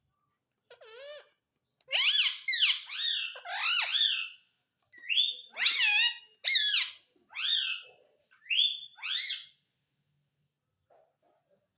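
Pet parrot giving a string of short, high squeaky calls with bending pitch, in two bursts with a brief pause between, falling silent near the end.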